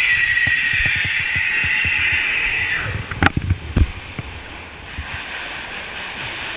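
Ghost train dark ride on board: a high, shrill effect tone fades out about three seconds in. Then come two heavy thumps about half a second apart, over the low rumble and knocking of the ride car.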